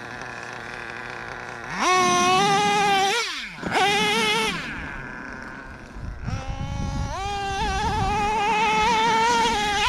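O.S. .21 TM two-stroke nitro engine of a Traxxas Revo 3.3 RC monster truck, idling low and then revving up in high-pitched bursts as the throttle is opened and released. There is a rough low rumble about six seconds in, before the engine climbs again and holds a high pitch to the end.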